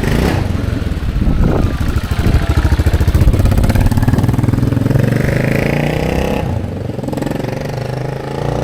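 1985 Yamaha XT600's air-cooled single-cylinder four-stroke engine running just after its first kick-start since being repaired, through a homemade exhaust link pipe. Its revs rise and fall, louder in the middle.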